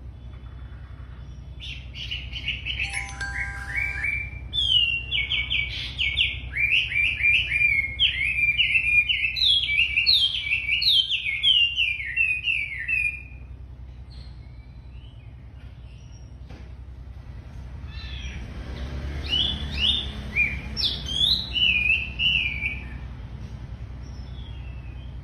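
A wambi songbird singing in two long bouts of rapid whistled notes, each note sweeping downward, with a pause of about five seconds between the bouts. A steady low hum runs underneath.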